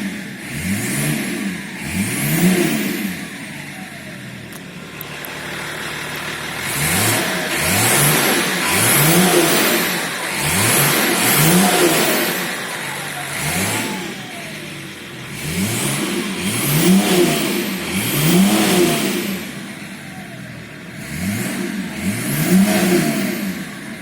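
BMW M51D25 2.5-litre inline-six turbodiesel revved again and again in short blips from idle, its pitch rising and falling each time. The engine carries a knock that the owner puts down to a failing fuel injector.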